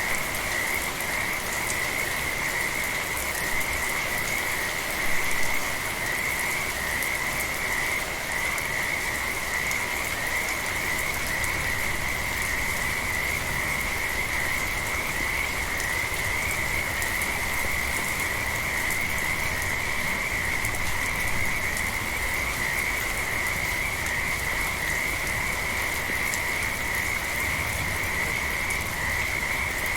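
A chorus of frogs calling continuously in a steady high-pitched trill, over the even hiss of gentle rain.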